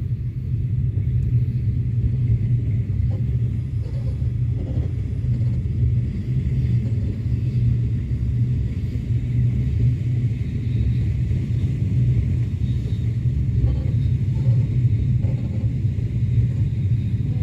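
Steady low rumble of a passenger train running along the track, with faint knocks now and then.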